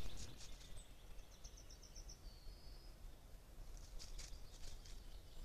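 Wild birds calling: a fast run of about eight short high notes, then a brief whistle, and a few sharp ticks about four seconds in, over a faint steady low hum.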